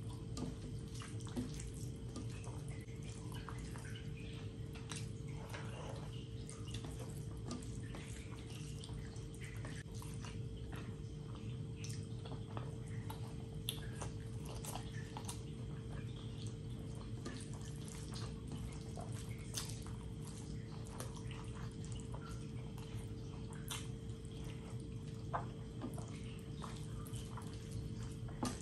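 Close-up wet chewing and lip-smacking of a person eating rice and curry by hand, with many small sticky clicks and squelches from the mouth and from fingers mixing the rice, over a steady low hum.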